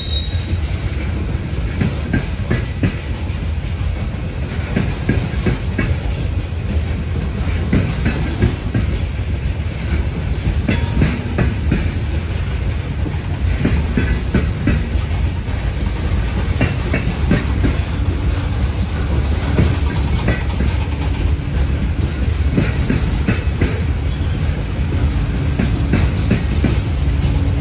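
Loaded coal train's hopper cars rolling past, a steady heavy rumble with wheels clacking over rail joints. From about two-thirds in, a locomotive's diesel engine hum joins as the mid-train CSX distributed-power unit draws near.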